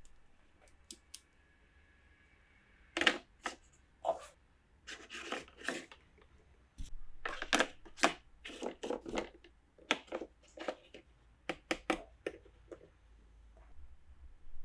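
Hands handling plastic toy pieces and packaging: a run of sharp clicks, taps and short crinkly rustles, starting about three seconds in.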